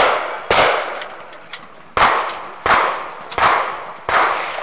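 Shotgun fired in a string of single shots, each a sharp bang with a short echoing tail, about one shot every 0.7 s, with one longer pause of about a second and a half early on.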